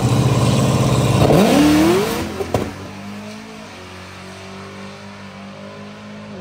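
Cadillac CTS-V drag car's V8 holding a loud, steady rumble, then revving up with a quick rise in pitch a little over a second in, and the sound falling away sharply as the car leaves down the track, leaving a quieter steady engine note.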